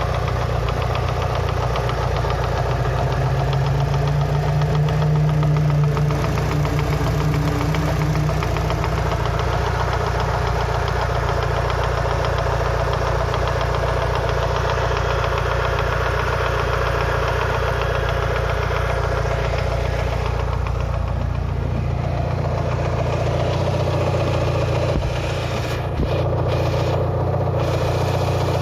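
Mitsubishi 4G63T turbocharged 2.0-litre inline-four idling while partly warmed up, with a knocking from the top end near cylinder one. Cleaning and bleeding the lash adjusters did not cure it, and the owner suspects piston slap or the upper rod bearing.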